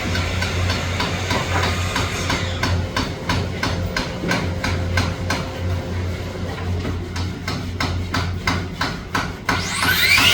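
Rapid hammer strikes, quickening to about three or four a second, over a steady low hum. Near the end a power-saw motor starts with a rising whine that levels off, likely the miter saw.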